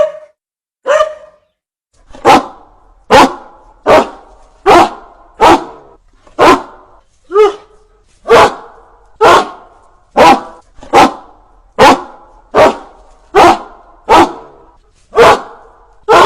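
A dog barking: one bark at the start and another about a second later, then from about two seconds in a steady run of single barks, a little more than one a second.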